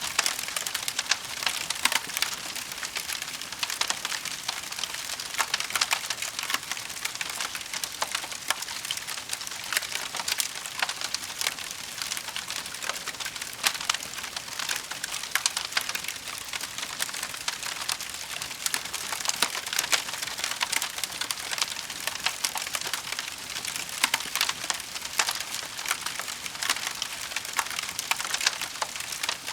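Wood fire crackling: a dense, steady run of small pops and snaps over a constant hiss.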